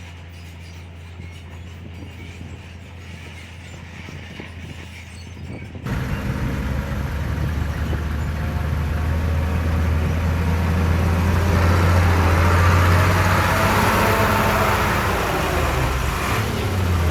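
Heavy diesel earthmoving machinery running: a low steady engine drone that jumps sharply louder about six seconds in and keeps swelling, with the engine's pitch shifting near the end.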